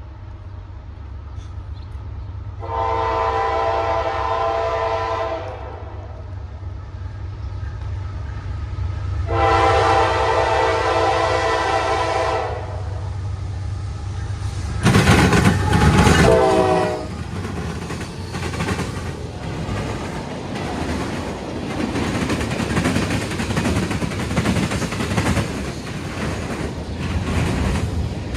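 An approaching train's locomotive rumbles, and its horn sounds two long blasts. A third, louder blast drops in pitch as the locomotive passes. Then the rumble and clickety-clack of the cars' wheels over the rail joints carries on as the train rolls by.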